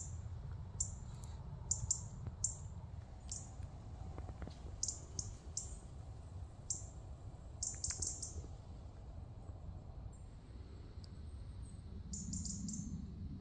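A small bird chirping: short, very high notes repeated at irregular intervals, several in quick succession, over a low steady rumble.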